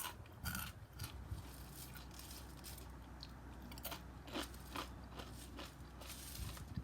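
Crunchy flake-and-cluster breakfast cereal (Great Grains Banana Nut Crunch mixed with Honey Bunches of Oats) crunching close to the microphone in irregular crunches and clicks.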